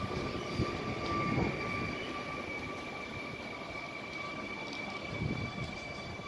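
A train moving through the station with a steady high-pitched whine and low rumbling, with a few low knocks from the wheels over the track.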